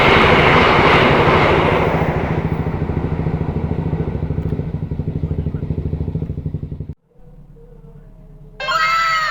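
Passing train rumbling with a fast rhythmic pulse, fading as it recedes, then cut off abruptly about seven seconds in. Near the end, a sound effect of several falling whistle tones begins.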